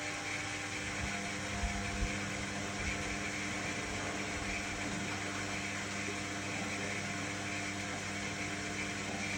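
Indesit My Time EWD61052 washing machine running with a steady mechanical hum, with a couple of soft low knocks in the first two seconds.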